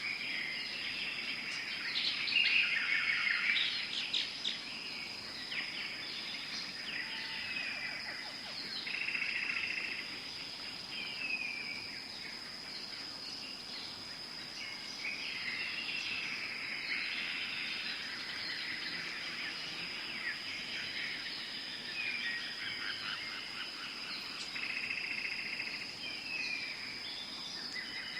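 Tropical forest ambience: many birds calling and chirping, with repeated short downward-slurred notes and trills, over a steady high-pitched insect drone.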